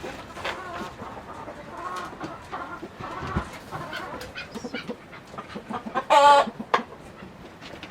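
Chickens clucking, many short calls one after another, with one louder, longer call about six seconds in.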